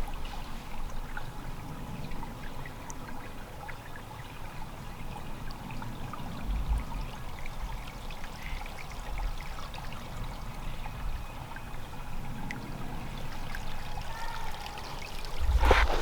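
Creek water trickling and flowing steadily, with a few low rumbles on the microphone partway through.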